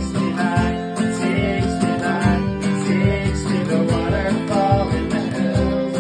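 Live song on strummed acoustic guitar with a voice singing, in a steady rhythm.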